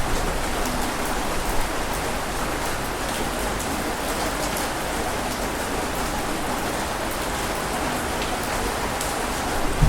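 Steady rain falling, an even hiss with a light patter of drops.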